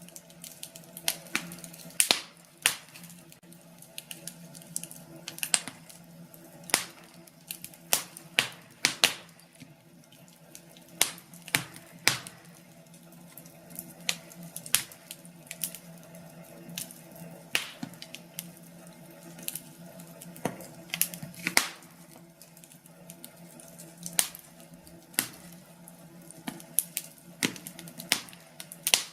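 Wood fire crackling in a fireplace: irregular sharp pops and snaps, about one or two a second, over a soft steady hiss.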